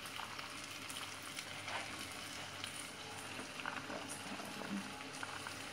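Steady sizzle of onions, tomato and pepper paste and pastırma frying in a pot, with faint scattered clicks as boiled white beans are tipped in from a plastic colander.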